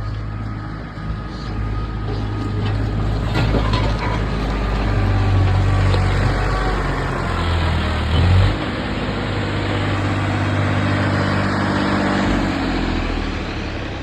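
Sonalika Tiger tractor's diesel engine running steadily. It builds up over the first few seconds, with a brief louder burst about eight seconds in, then settles back to a steady run.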